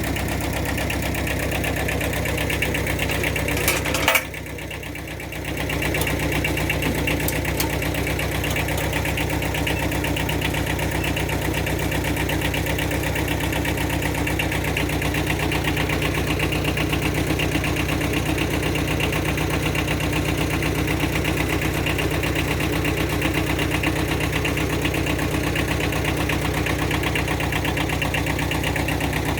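Engine idling steadily. About four seconds in there are a couple of sharp clicks, after which the sound is briefly quieter.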